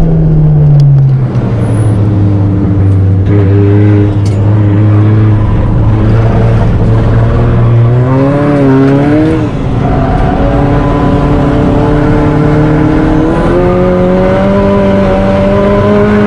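Fiat Punto Abarth's turbocharged four-cylinder engine heard from inside the cabin while driven on a race circuit. Its note drops at the start, holds steady, rises and falls quickly a couple of times about halfway through, then climbs gradually with a step up near the end.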